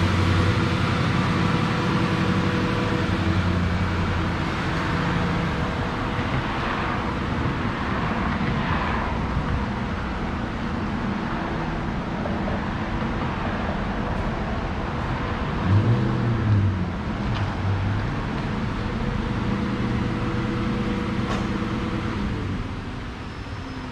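2003 Mustang SVT Cobra's supercharged 4.6-litre V8 running at low speed as the car pulls away out of the bay, its sound growing fainter. There is a brief rise and fall in engine pitch about two-thirds of the way through.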